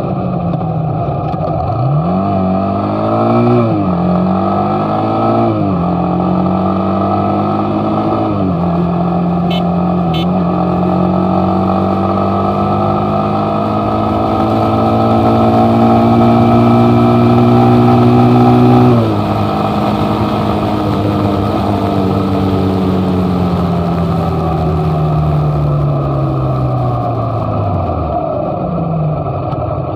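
Motorcycle engine on the move, speeding up in quick steps in the first few seconds as it shifts up through the gears, then running at a steady speed with a slow rise. About nineteen seconds in the revs drop sharply and fall away as it slows, then pick up again near the end.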